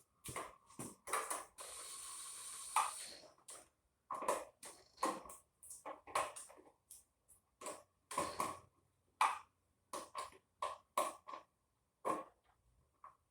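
Irregular knocks and clatters of hard objects being handled, with a steady hiss lasting about two seconds near the start.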